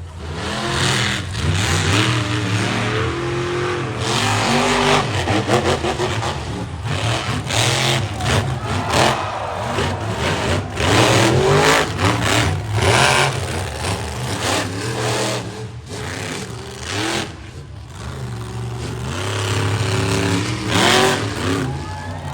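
Monster truck engine revving hard again and again, its pitch rising and falling with each throttle stab, with sharp bangs scattered through.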